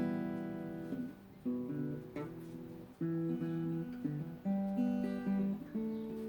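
Acoustic guitar being strummed and picked, with the chord changing every second or so.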